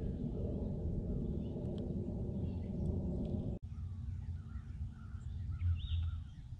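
Birds calling and chirping, mostly in the second half, over a steady low rumble. The sound drops out briefly about halfway through.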